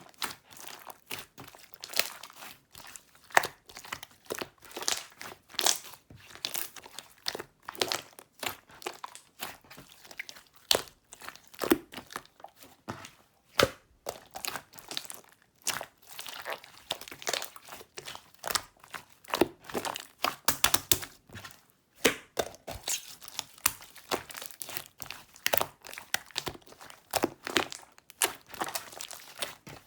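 Hands squeezing, folding and stretching a grainy sherbet-type slime, making a dense, irregular run of crackles, crunches and small pops.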